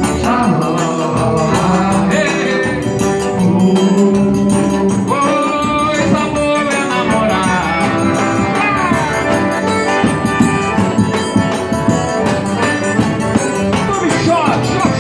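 Live band music: a pitched melody line bending and sliding over steady rhythmic percussion, with wordless vocal lines at times.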